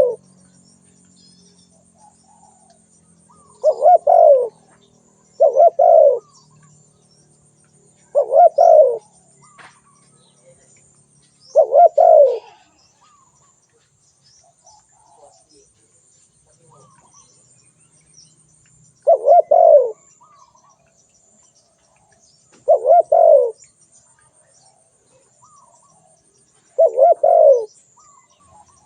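Spotted dove cooing: seven short phrases of a few low, bending coo notes each, repeated every few seconds with a longer pause in the middle.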